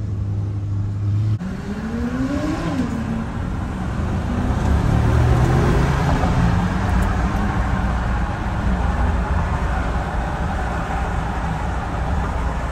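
A car engine accelerating: its pitch climbs for about a second and a half, drops at a gear change, then settles into a loud low engine and road rumble.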